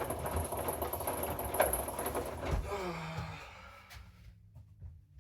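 Hoover inverter washing machine running with a loud rumble of drum and motor, then about three seconds in the motor winds down with a falling tone and the machine goes quiet: it has cut out mid-cycle, which the owners suspect is a control board fault.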